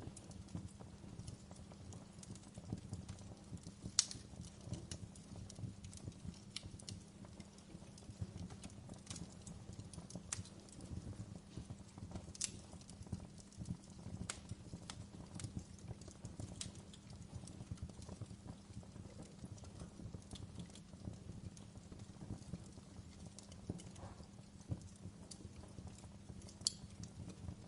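Wood fire burning in a fireplace, crackling: irregular sharp pops and snaps from the logs over a low steady rumble of the flames. The loudest pops come about four seconds in and near the end.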